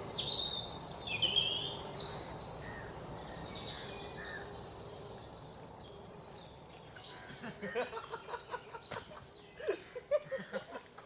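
Birds chirping, with quick high falling notes in the first couple of seconds and scattered chirps after. In the last few seconds there are clicks and knocks, along with short lower calls.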